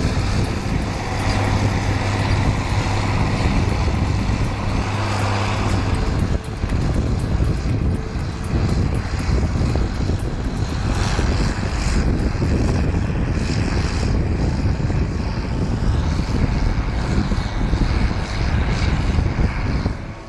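Tractor engine running hard under load. A steady hum for about the first six seconds, then a rougher, noisier sound.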